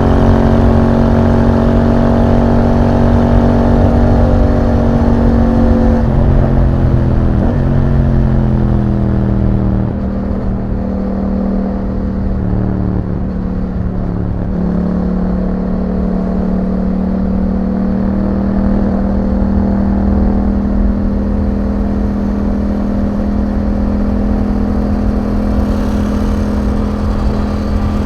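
Yamaha MT-07's parallel-twin engine through an Akrapovic exhaust, running under way. Its pitch drops in steps around six to eight seconds in, then wavers and goes a little quieter for a few seconds before settling into a steady cruise.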